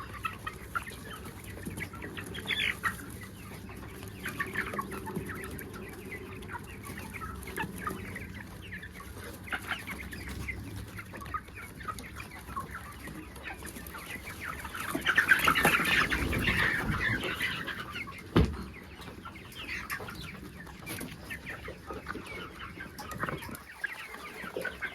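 Desi chickens clucking and calling steadily. About two-thirds through a louder rush of noise swells up for a couple of seconds, followed by a single sharp knock.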